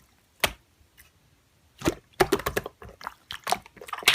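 Slime being handled, giving sharp wet clicks and pops at irregular intervals, one near the start, then a quick cluster from about two seconds in.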